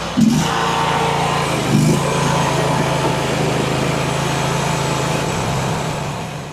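Mini skid steer engine running, its throttle brought up about two seconds in and then held at a steady higher speed. The sound dies away over the last second.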